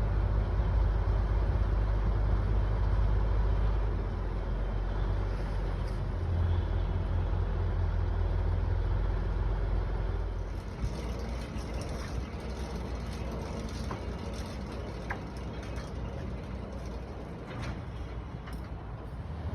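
Heavy diesel engine of the mobile crane running steadily under load during the lift, easing off about halfway through, with scattered clicks and rattles in the second half.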